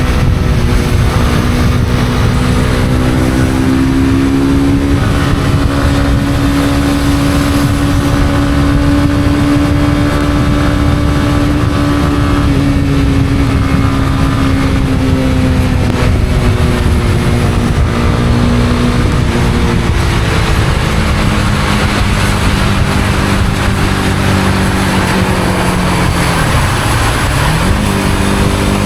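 Honda CB250R's single-cylinder engine running at a steady cruise under a constant rush of wind and tyre noise. About two-thirds through, the revs fall away as the bike slows; near the end they dip sharply, then climb again.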